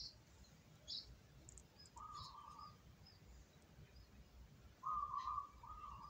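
Birds chirping: a few short, high chirps in the first half, then a buzzy, trilling call twice, the second time longer near the end.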